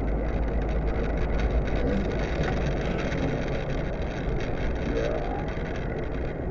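Steady low rumble of road and engine noise inside a moving car, as recorded by a dashcam.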